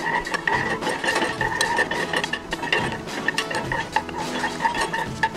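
A utensil stirring melting coconut oil in a pot, with irregular scrapes and clinks against the pot, over a steady tone in the background.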